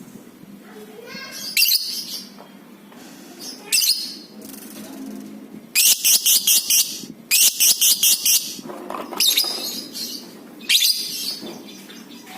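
Lovebird calling shrilly: a few short calls, then two long runs of rapid, evenly repeated shrieks about six times a second, the long chattering call keepers call ngekek panjang, followed by two more shorter calls.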